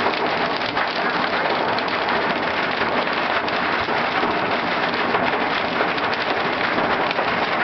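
Hail and heavy rain pelting a car, heard from inside: a dense, steady rush of countless small impacts on the roof and glass.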